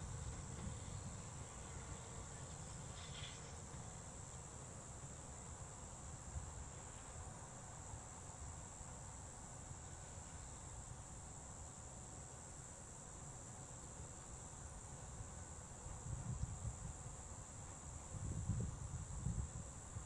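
Crickets trilling steadily in one continuous high tone, over a low rumble that swells in uneven surges near the end.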